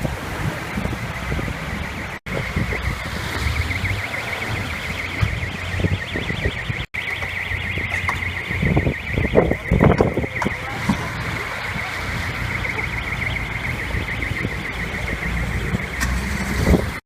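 A car alarm sounding: a steady high tone pulsing rapidly. It runs over wind rumbling on the microphone, with louder gusts about halfway through.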